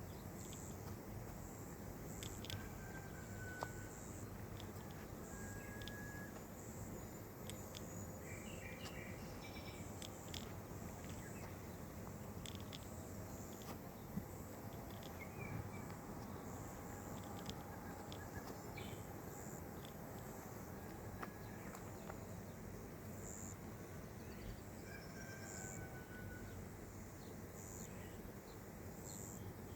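Outdoor nature ambience: an insect chirps high and short about once every second or so over a steady hiss, with a few brief whistled bird calls.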